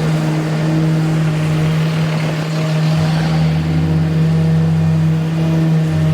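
An engine running steadily with a constant hum, joined by a deeper rumble from about three seconds in until shortly before the end.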